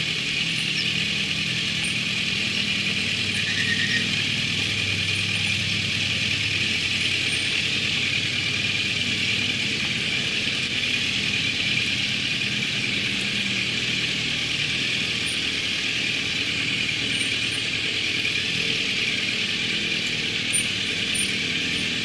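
Motorcycle engine running at a steady pitch under a steady rush of wind and road noise.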